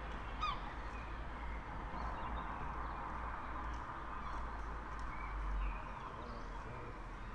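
Birds calling over a steady low background hum: one sharp, falling call about half a second in, then a few short, faint chirps.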